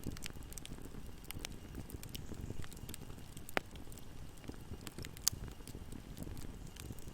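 Wood fire crackling in a fireplace: a steady low rush of burning with scattered small crackles, and two sharper pops about three and a half and five seconds in.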